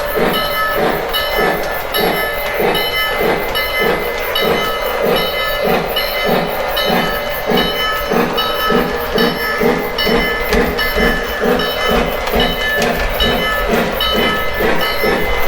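Lionel O gauge locomotive's electronic sound system ringing its bell continuously, in a quick even rhythm, as the train backs through a switching move, with the locomotive's running sounds underneath.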